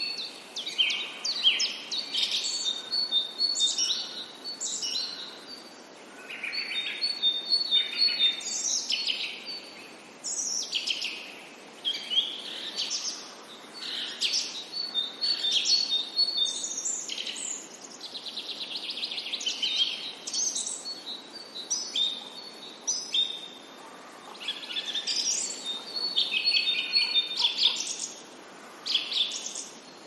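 Songbirds singing: short chirping and whistled phrases in clusters every few seconds, with brief pauses between, over a steady low hiss of background noise.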